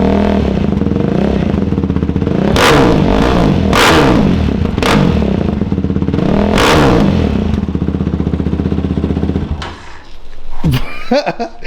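Yamaha YFZ450R quad's single-cylinder four-stroke engine running loud through a Rossier R5 aftermarket exhaust. It is revved in four sharp surges, then the engine sound falls away near the end.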